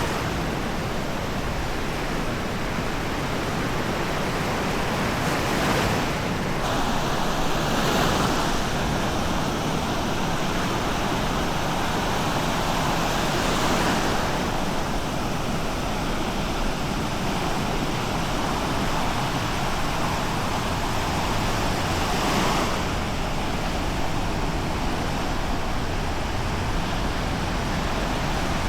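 Surf on the shore: small waves breaking and washing up the beach, a steady wash that swells a few times.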